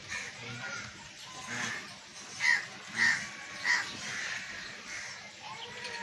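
A bird gives three loud, harsh calls about half a second apart, a little over two seconds in, with fainter bird calls around them.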